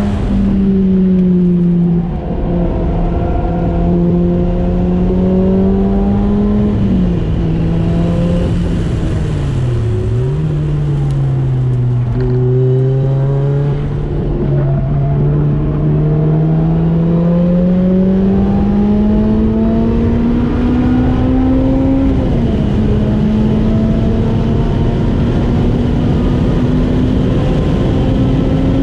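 Lotus Elise SC's supercharged 1.8-litre four-cylinder engine driven hard on track, heard from inside the open cockpit: the note drops and steps with gear changes, dips lowest about ten seconds in, then climbs steadily through a long pull before an upshift just after twenty-two seconds. Wind and road noise run underneath.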